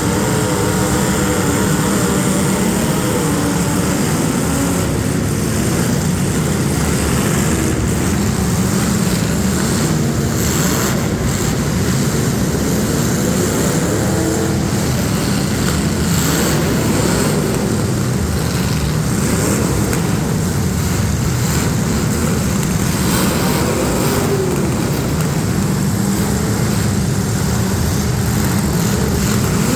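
Several demolition derby street stock cars' engines running and revving together in a loud, continuous mix, their pitch rising and falling.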